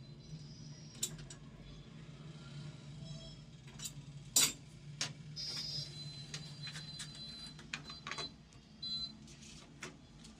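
Scattered light clicks and knocks, the loudest about four and a half seconds in, over a steady low hum, with a thin high tone sounding on and off through the middle.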